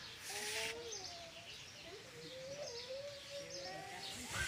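Small birds chirping, with short, high, falling chirps repeating over a lower wavering call. There are two brief scuffing hisses, one about half a second in and one near the end.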